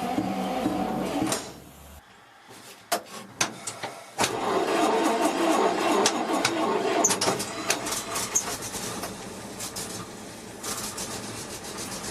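Starter cranking the REO OA-331 gasoline inline-six of an M35 deuce-and-a-half, with sharp knocks and thuds over the cranking. The regular thumping is from a failing mechanical fuel pump that is starving the engine of fuel.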